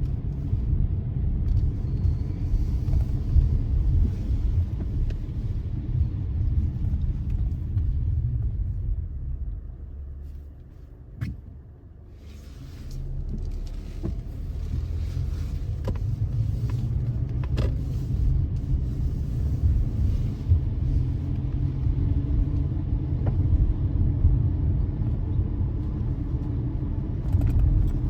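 Car driving, heard from inside the cabin: a steady low road and engine rumble. It quietens around ten to twelve seconds in, as if slowing, then builds again. A few sharp clicks break through in the middle.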